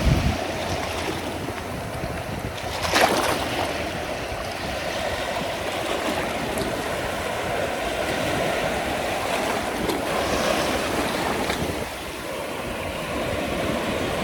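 Ocean surf washing onto the beach, with wind buffeting the microphone; one louder surge comes about three seconds in.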